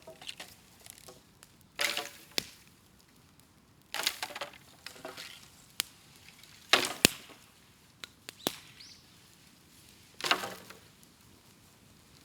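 Bamboo burning on an open bonfire, crackling and popping in irregular bursts with several sharp cracks. The loudest crack comes about seven seconds in.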